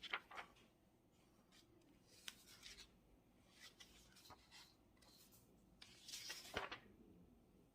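Faint scratching of a pen writing on paper, in short irregular strokes with pauses between, and a longer, louder rustle about six seconds in.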